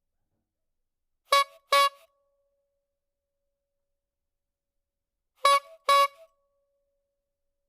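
A sound-effect clip of two short, sharp pitched toots in quick succession, played twice about four seconds apart, with silence between.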